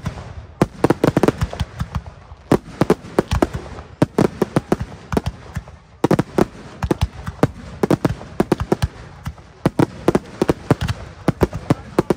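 Aerial fireworks shells bursting in rapid succession: a dense run of sharp bangs and crackles coming in clusters with brief lulls between them.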